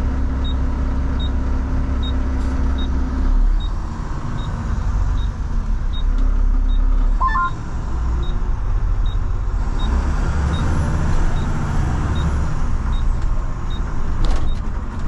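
Front-load garbage truck's engine running, heard from inside the cab, its low rumble shifting as the truck changes speed. A faint, even ticking goes on about twice a second, and a short two-note rising beep sounds about halfway through.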